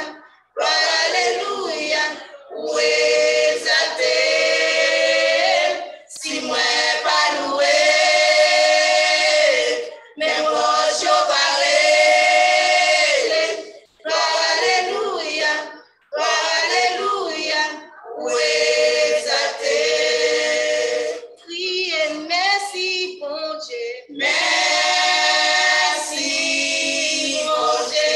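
Gospel choir singing unaccompanied in phrases of a few seconds, with short breaks between them.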